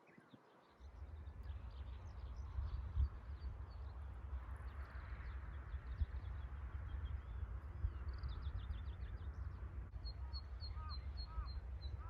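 Small birds chirping and singing high and fast, over a low rumble of wind on the microphone that starts about a second in. Near the end a bird gives a quick run of short, arched, repeated calls.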